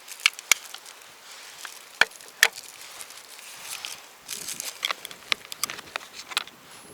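Scattered sharp clicks and knocks over light rustling. The loudest pair comes about two seconds in.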